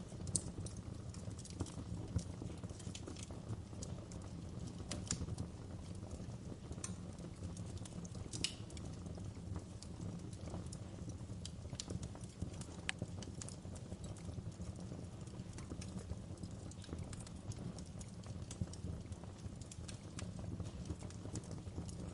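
Wood fire burning in a fireplace: a steady low rumble of the flames with scattered sharp crackles and pops, a few louder snaps standing out.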